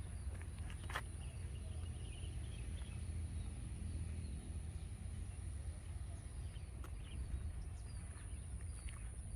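Outdoor ambience on a walk: scattered footstep clicks and a few short bird chirps about three to four seconds in, over a steady low rumble and a constant high-pitched whine.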